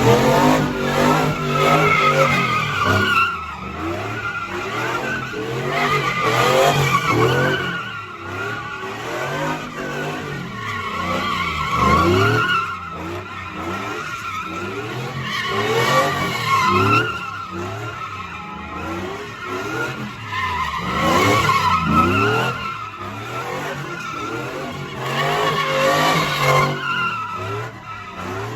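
A car drifting: its tyres squeal in long, wavering screeches while the engine revs climb again and again, in repeated loud swells.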